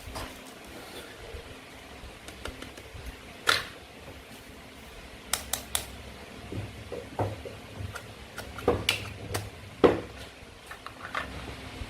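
Toy play-food pieces clicking and clacking as they are handled and cut apart with a toy knife. The taps are irregular, with a sharp clack about three and a half seconds in, a quick run of clicks around five and a half and nine seconds, and a heavier knock near ten seconds.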